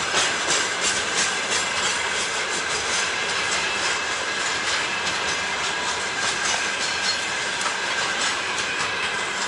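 A freight train rolling past, its wheels clicking rapidly over the rail joints in a steady run of rolling noise, with a thin high steady tone from the wheels or rails.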